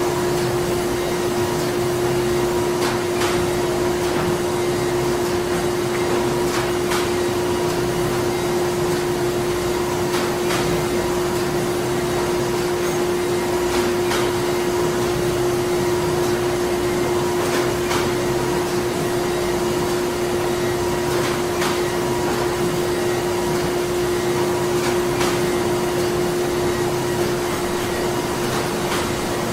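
Printing-plant machinery running continuously: a steady mechanical drone with a strong unchanging hum and faint, irregular clicks a second or a few seconds apart.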